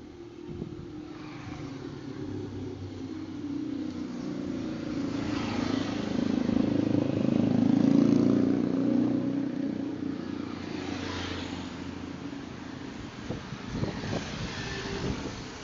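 A motor vehicle's engine passing by: it grows steadily louder to a peak about halfway through, then fades away.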